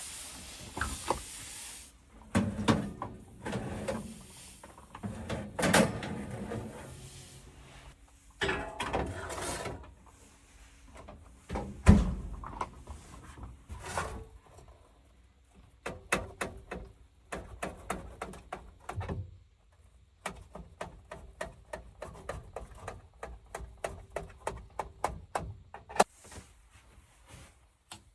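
Indoor handling noises: a run of separate clicks and knocks, with one sharp knock about twelve seconds in and quick repeated clicks through the last third.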